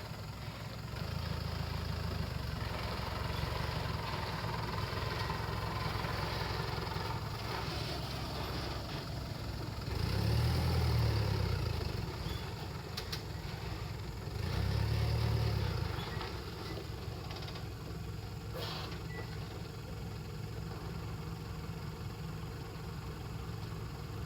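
Truck engine idling steadily, revved up and back down twice, about ten seconds in and again about fifteen seconds in.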